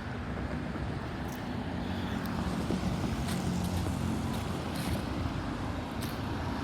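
Road traffic: cars running along the street with a steady low rumble of engines and tyres.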